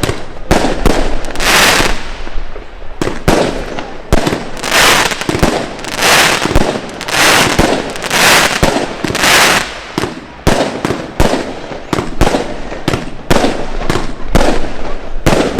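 A 144-shot compound firework box (World's Toughest Firework Dragon Darkness) firing a rapid run of shots, several a second. Several times the sharp reports give way to half-second spells of fierce crackling from the crackling stars.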